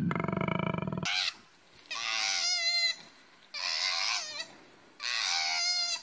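A koala's low, deep bellow ends abruptly about a second in. Then a koala gives three high, wavering cries, each just under a second long, with short pauses between them.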